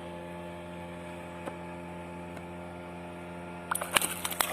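A steady low hum with several even overtones, then a short cluster of clicks and rattles near the end.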